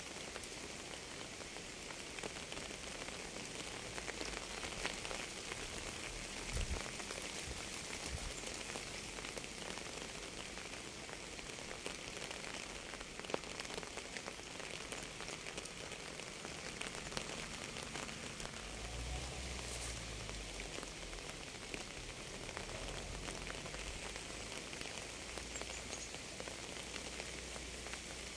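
Steady rain falling on a surface, an even patter with single drops ticking sharply now and then.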